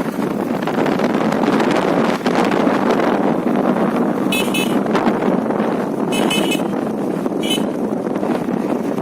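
Steady wind and road noise from a moving motorcycle, with three short high-pitched vehicle horn toots in the second half.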